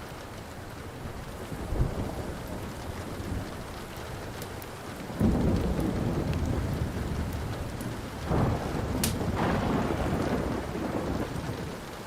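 Thunder over steady rain: a faint rumble about two seconds in, then two louder peals, about five and eight seconds in, each rolling on for a few seconds. Sharp pops from a crackling wood fire are scattered throughout, one loud one about nine seconds in.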